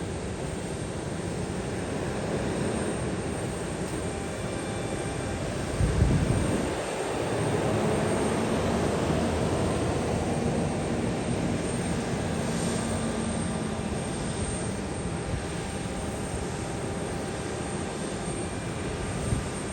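Airliner engines running with a steady roar, the pitch gliding in the middle of the stretch. There is a low thump about six seconds in and more just before the end.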